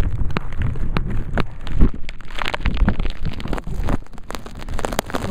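Blizzard wind buffeting the microphone in a steady low rumble, with many irregular sharp crackles over it.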